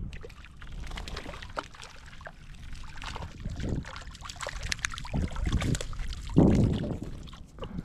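Water splashing and sloshing as a small hooked rainbow trout thrashes at the surface while being played in, with a louder burst about six and a half seconds in. A low rumble of wind on the microphone runs underneath.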